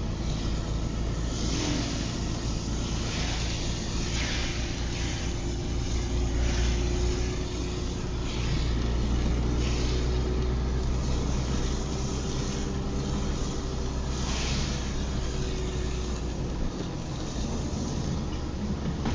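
Car driving in the rain, heard from inside the cabin: a steady engine and road rumble with a swish repeating about once a second, typical of windshield wiper strokes.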